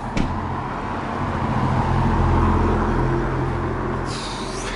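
A motor vehicle's engine passing close by on the street, its low hum growing louder to a peak about halfway through and then fading. A short hiss comes near the end.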